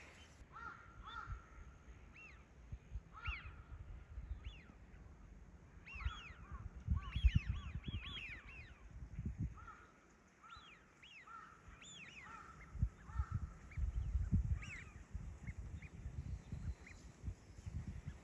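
Birds calling repeatedly, many short calls that rise and fall in pitch and come in bunches, with uneven low rumbling and thumps underneath.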